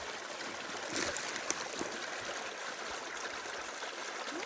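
Small stream running with a steady babble of water, and a couple of faint clicks about a second in.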